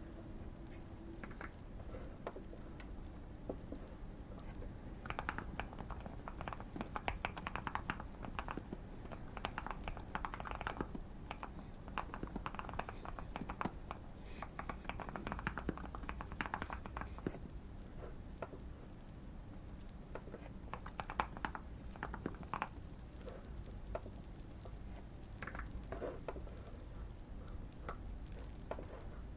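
Typing on a modded Keychron Q1 custom mechanical keyboard, keys clicking in quick runs with short pauses between, busiest from about five to seventeen seconds in. Light fire crackling runs underneath.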